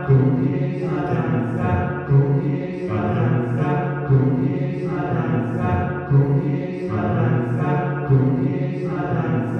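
Unaccompanied voices chanting a short sung phrase over and over, a deep low voice strong beneath the others, the phrase repeating about every two seconds.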